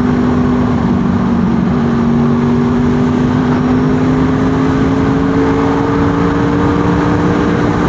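Honda VFR800 VTEC's V4 engine running steadily under way, its pitch rising slowly as the bike picks up speed.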